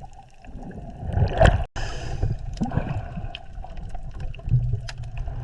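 Underwater ambience of gurgling water and bubbles, muffled and uneven, with scattered small clicks. It cuts out completely for an instant a little under two seconds in.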